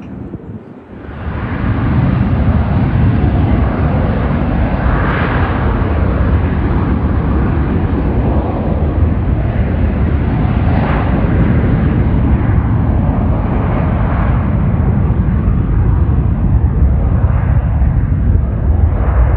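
Jet airliner engines, a loud steady roar with heavy low rumble that comes in suddenly about a second in and grows slightly louder near the end.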